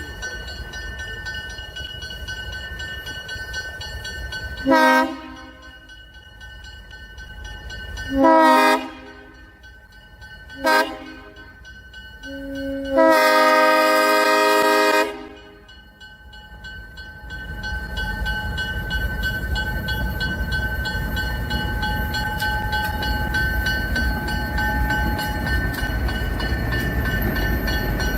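Alco FPA diesel locomotive's multi-chime air horn sounding four blasts for a grade crossing: three short ones, then a long final blast. Afterwards the locomotive's engines and the train's rumble grow steadily louder as it comes through.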